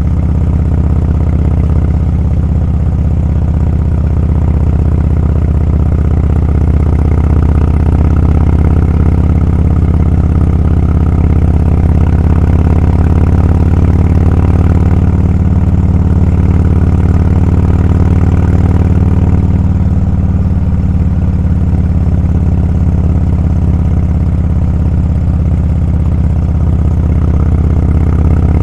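Motorcycle engine running steadily at cruising speed, a loud, low, even drone with no change in pitch.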